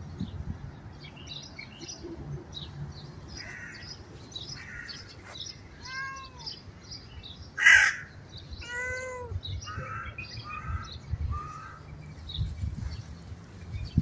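Birds calling: a few loud, harsh calls around the middle, the loudest about eight seconds in, over small birds chirping throughout.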